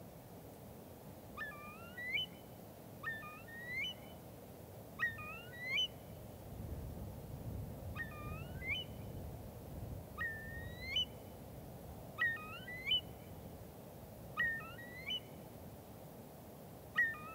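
A bird calling again and again: short calls that hook sharply upward at the end, often in pairs, repeating every second or two. Underneath is a low background rumble that swells in the middle.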